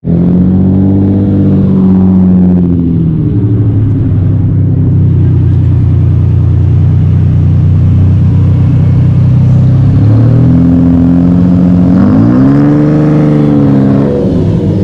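Car engine idling, settling from higher revs over the first couple of seconds, then revved up and back down briefly about twelve seconds in.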